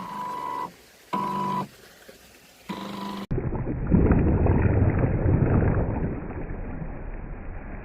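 Three short toots at one steady pitch in the first three seconds, then an abrupt cut to a loud, steady rush of water and wind noise around the small RC work boat on the river.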